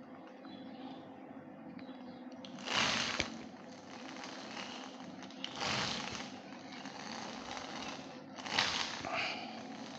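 A small motor running with a steady hum, broken three times by short bursts of rushing, scraping noise, about three, six and eight and a half seconds in.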